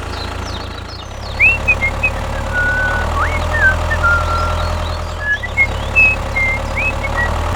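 Small electric motor of a DIY model tractor running with a steady hum, getting louder about a second in and dipping briefly near the five-second mark. Short high chirps sound on and off above it.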